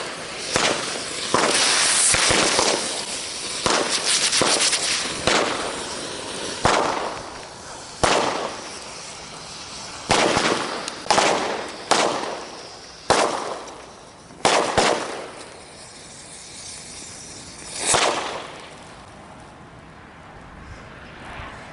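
Fireworks and firecrackers going off in a series of sharp bangs, close together at first and then thinning to scattered single bangs a second or more apart.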